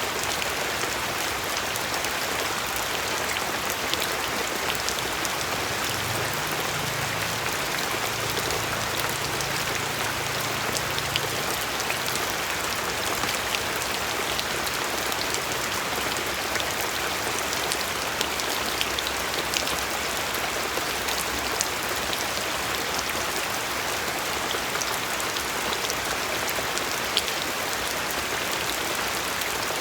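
Steady rain falling, with individual drops ticking sharply on a surface throughout.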